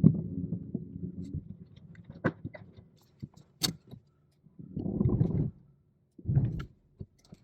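A low mechanical run dies away in the first second and a half. Scattered metallic clicks and knocks follow, then two short low bursts of running, about five and six and a half seconds in.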